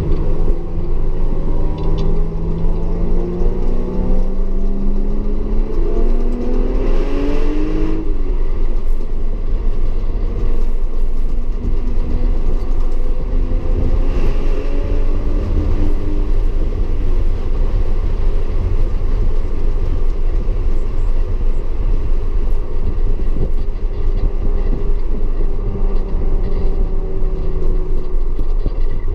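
Audi S4 engine under hard acceleration. Its pitch rises steadily over the first eight seconds, breaks off, then climbs again before settling into steadier running, over a heavy continuous rumble of road and tyre noise.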